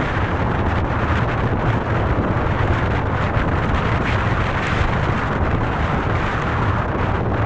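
Heavy rain beating steadily on a tent's fabric during a storm.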